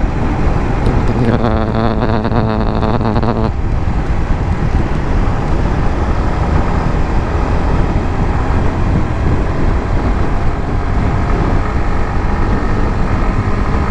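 A 150cc motorcycle riding at speed, with steady wind and engine rumble. About a second in, a steady pitched drone joins for a couple of seconds and cuts off suddenly.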